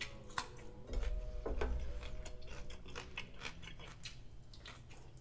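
Close-up chewing with irregular wet mouth clicks and smacks, from a mouthful of rice and chicken in thick chilli gravy eaten by hand.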